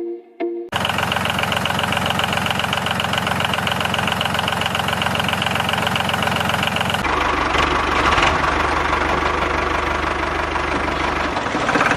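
Miniature diesel engine running steadily with a fast, even knocking beat. About seven seconds in the sound switches abruptly to a deeper-sounding stretch of the engine running.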